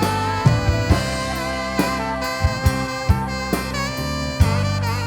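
Church worship band playing an instrumental passage between sung lines: a held melody line over steady bass, with a few sharp drum hits.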